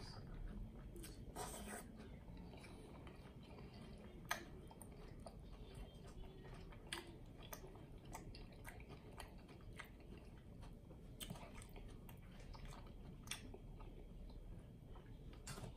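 Close-miked chewing of a mouthful of bacon cheeseburger, faint, with irregular soft wet clicks and smacks of the mouth.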